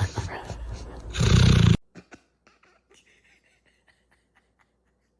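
A dog's loud, rough vocalizing, which cuts off abruptly under two seconds in. Faint scattered clicks and taps follow.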